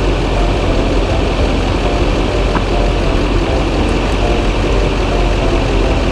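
Chevy K3500's Duramax V8 turbodiesel idling steadily.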